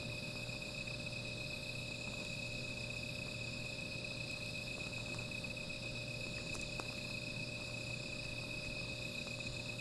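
A steady chorus of crickets and other night insects, a continuous high trilling that never pauses, with a couple of faint clicks about six and a half seconds in.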